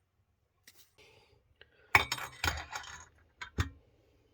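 Clinking and clattering of small hard objects: a dense run of knocks and clinks about two seconds in, then two sharp single clinks.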